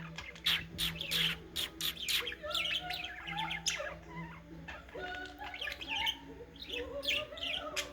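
Budgerigar chattering: a rapid run of short chirps and squawks mixed with wavering warbles.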